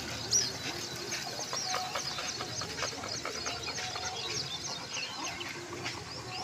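Birds chirping: many short, high chirps repeating several times a second over a low steady street background.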